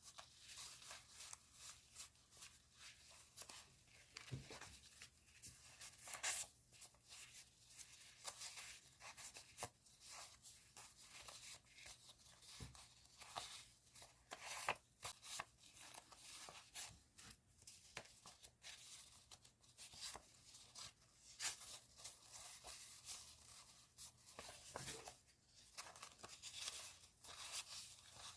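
Quiet, irregular rustling and crinkling of paper and plastic-wrapped stationery being handled, with short scratchy tearing or peeling sounds every second or so.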